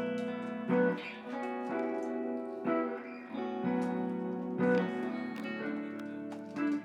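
Guitar playing slow picked notes and chords that ring on, a new one about once a second.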